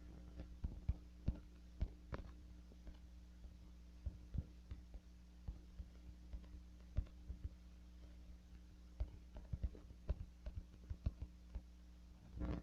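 Steady low electrical hum with irregular faint clicks and taps scattered through it, several close together near the end.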